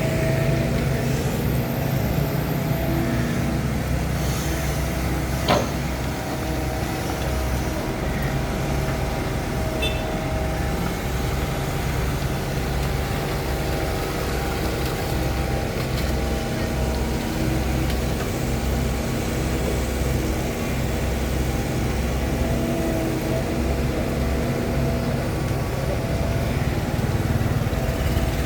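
Excavator's diesel engine running steadily, a continuous low drone, with one sharp knock about five and a half seconds in.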